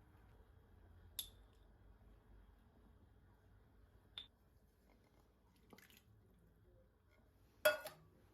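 Dishes or glassware clinking as they are handled and set down: four short, sharp clinks spread over several seconds, the last the loudest.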